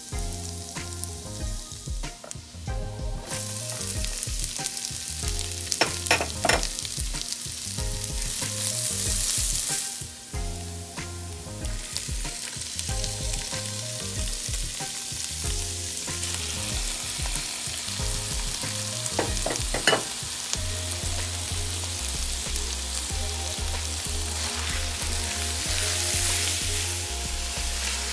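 Garlic, onion and then ground beef and pork frying in hot oil in a pan: a steady sizzle with stirring, and a few sharp knocks of the utensil against the pan, one group about six seconds in and another near twenty seconds.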